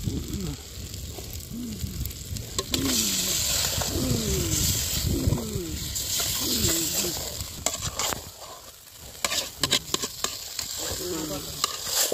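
Onions and tomatoes frying and sizzling in an aluminium pot over a wood fire while a metal ladle stirs and scrapes the pan. Raw chicken pieces are stirred into the masala, and sharper scrapes and clinks of the ladle on the pot come near the end.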